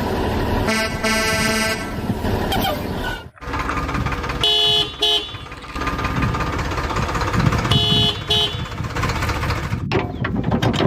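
A vehicle horn tooting in short double blasts three times over steady engine noise, which breaks off abruptly twice.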